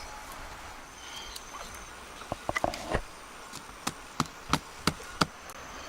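A run of about ten sharp knocks or taps from about two seconds in, irregular, a few a second, over a steady high insect buzz.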